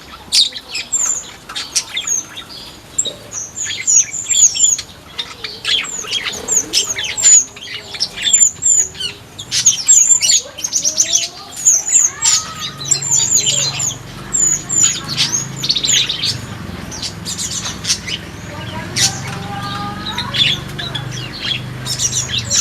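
Flamboyan birds in an aviary chirping and twittering, many quick high notes overlapping without pause, with a faint low hum underneath in the second half.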